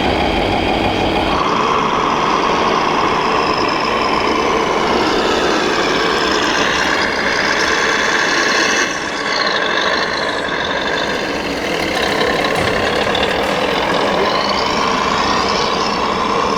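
Scale RC construction machines working: electric motor and hydraulic pump whine rising and falling in pitch over steady engine-like running.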